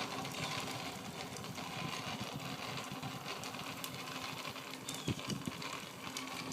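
Bicycle being ridden: a steady mechanical clatter with many scattered clicks from the moving bike, over rolling road noise.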